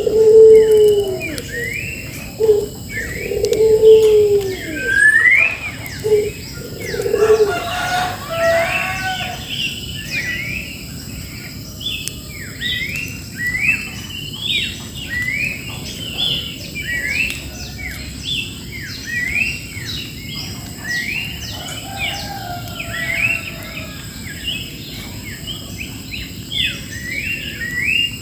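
Birds calling: low, arched coo-like calls in the first seven seconds, then a steady run of short rising chirps, about two a second.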